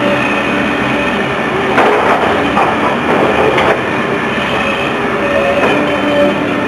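Demolition machinery at work: a steady mechanical drone with a constant whine, overlaid by rattling and crunching, heaviest about two and three and a half seconds in.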